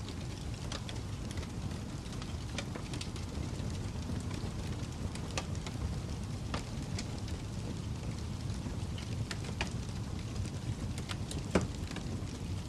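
Fire crackling: a steady low rumble with scattered sharp pops and snaps, one louder pop near the end.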